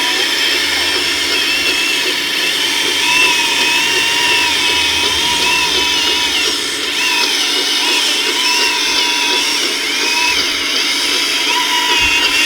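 Small electric motors of radio-controlled scale model construction machines running with a steady whine whose pitch keeps rising and falling as the load changes.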